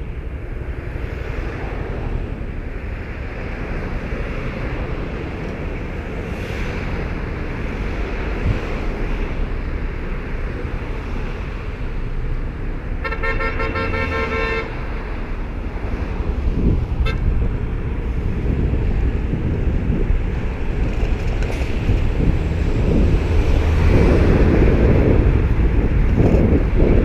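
Road traffic and wind on the microphone make a steady rumble that grows louder near the end. About halfway through, a car horn honks once for about a second and a half.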